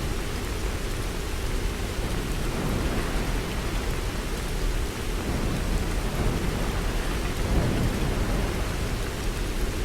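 Heavy rainstorm: a continuous hiss of rain with a steady low rumble underneath, with no distinct thunderclaps.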